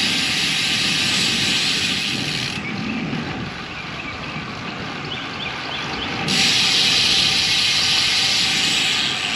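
Steady rushing of wind and road noise while riding a road bike, with a low rumble underneath. The high hiss cuts out abruptly about a third of the way in and comes back just as suddenly a few seconds later.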